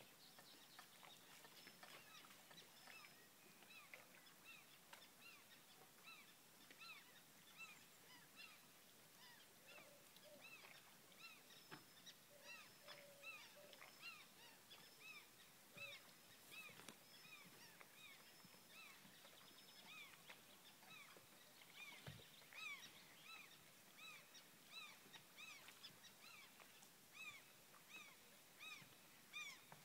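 Birds calling faintly: a short rising-and-falling call repeated over and over, roughly once a second.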